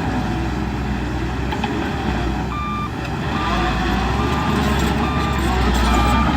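Diesel engine of heavy earthmoving machinery running steadily, and from about two and a half seconds in a reversing alarm beeps five times at one pitch, a little under a beep a second, as a machine backs up.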